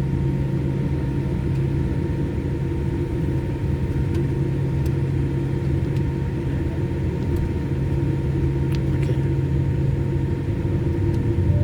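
Steady low hum and rumble inside an airliner cabin before its own jet engines are started, growing a little louder near the end.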